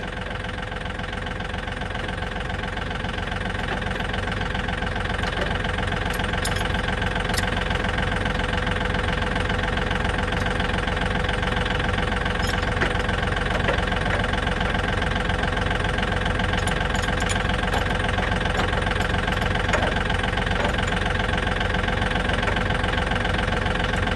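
Diesel tractor engine idling steadily, growing a little louder over the first few seconds and then holding even.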